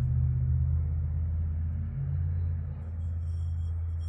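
Dremel rotary tool with a buffing pad running with a steady low hum, its pitch shifting about halfway through.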